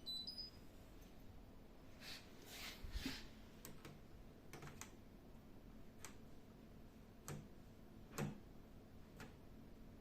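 Faint, scattered clicks and light knocks at uneven intervals, with a few short rustling bursts about two to three seconds in and the sharpest click near the end.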